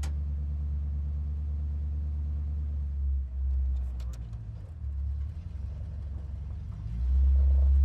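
Low, steady engine rumble of a CNG auto-rickshaw, getting louder for about the last second.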